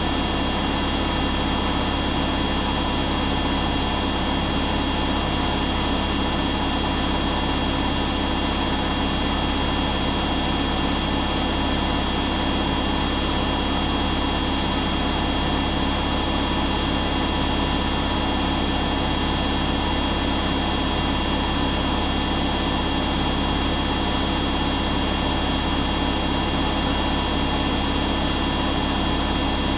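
Washing machine drum spinning at high speed, probably in the final spin: a steady motor whine with a low hum and several high steady tones, even throughout.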